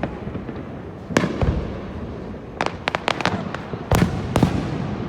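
Aerial fireworks bursting overhead. A couple of booms come about a second in, then a quick run of sharp cracks in the middle, then two of the loudest booms close together near the end.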